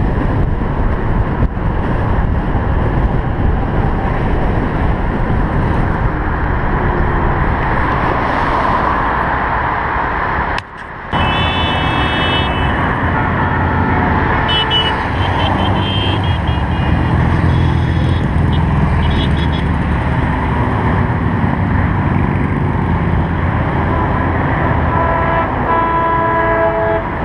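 Street traffic: cars and trucks driving past, with several car-horn toots in the second half.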